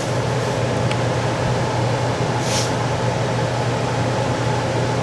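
Gas furnace blower fan running steadily with a low hum and air rush, with a brief high hiss about halfway through.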